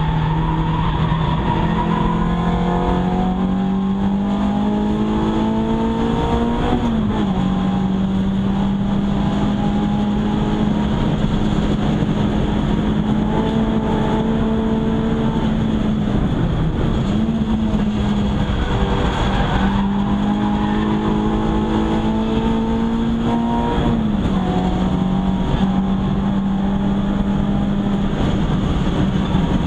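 Renault Clio 172's 2.0-litre four-cylinder engine under hard acceleration on track, heard from inside the cabin. The note climbs through the revs and drops sharply at upshifts about 7 seconds in and near the end, with a brief lift and pick-up in between.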